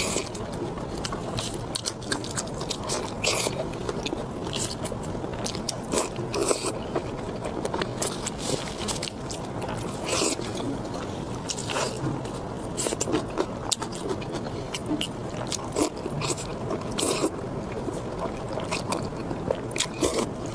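Close-miked eating sounds: someone chewing and biting food, with wet mouth sounds and many scattered sharp clicks.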